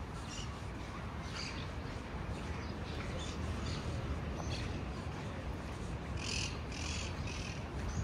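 Short, high-pitched bird calls, about half a dozen scattered through, the loudest cluster about six to seven and a half seconds in, over a steady low background hum of outdoor ambience.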